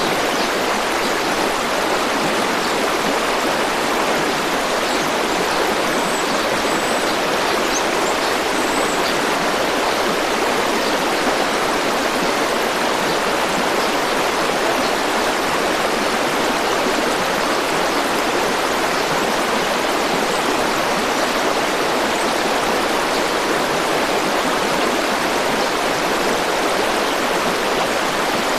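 River or stream water rushing steadily, an even wash of noise with no change in level.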